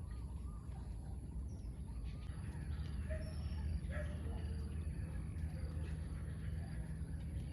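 Birds giving scattered short chirps and calls over a steady low rumble and a thin, steady high-pitched hiss.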